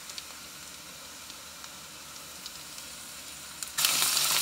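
Sliced onions with cumin and kalonji seeds frying in hot olive oil in a nonstick wok, a steady gentle sizzle with a few small pops. Near the end raw chicken pieces drop into the hot oil and the sizzling suddenly turns much louder.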